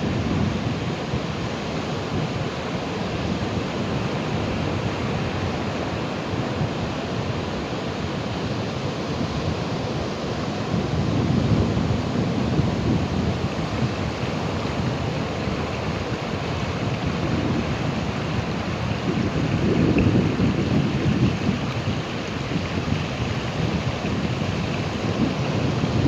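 Ocean waves breaking and washing in a continuous deep rush, swelling louder twice, near the middle and about three-quarters of the way through.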